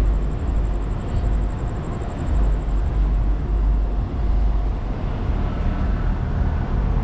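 Wind buffeting the microphone during a bike ride: a steady, uneven low rumble that swells and fades, with faint road and traffic noise underneath.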